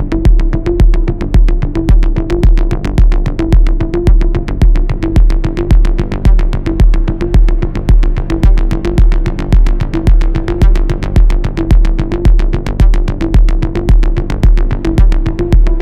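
Electronic trance music: a steady drum-machine kick about twice a second over deep bass, with quick hi-hat ticks and sustained synthesizer tones.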